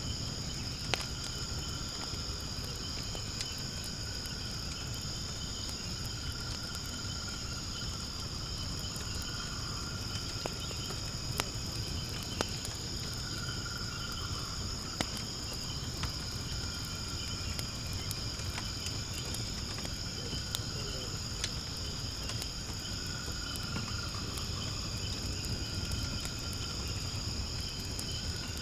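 Steady high-pitched chirring of insects, with a fainter wavering call beneath it, over a low rumble, and occasional sharp pops and crackles from wood burning in a fire pit.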